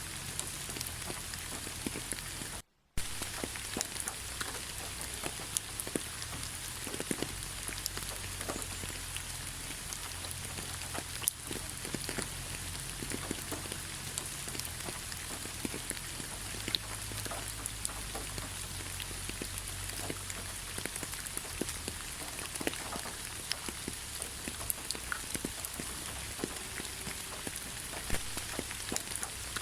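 Steady rain falling, with many separate drop hits ticking through an even hiss. The sound cuts out completely for a split second about three seconds in.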